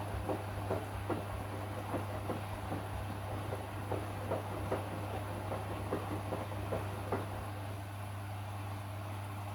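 Washing machine running in its wash cycle: a steady low hum with a run of soft knocks, about two or three a second, that stop about seven seconds in.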